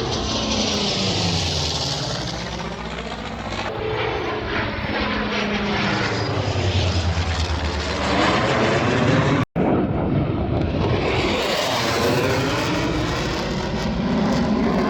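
P-51 Mustang's V-12 piston engine and propeller as the fighter flies past, the sound swelling and its pitch dropping as it goes by. A sudden break about nine and a half seconds in is followed by another pass.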